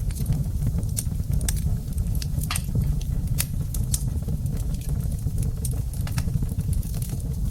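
Wood fire crackling in a fireplace: irregular sharp pops and snaps over a steady low rumble of the burning flames.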